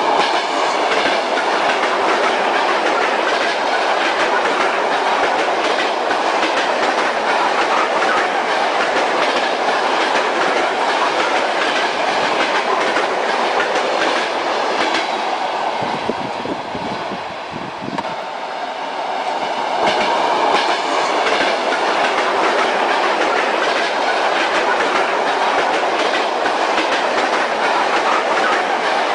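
Train wheels clattering over the rails with a steady running rumble. Just past the middle the sound briefly softens and turns deeper, then returns.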